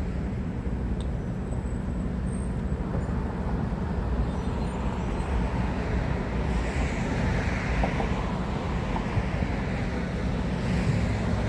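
Steady low rumble of motor-vehicle noise, with a rushing hiss that swells about six seconds in.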